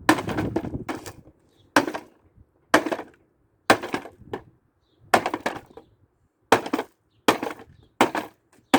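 Hammer blows on a hard plastic kids' ride-on toy car, about ten sharp strikes at roughly one a second, each followed by a brief clatter of plastic.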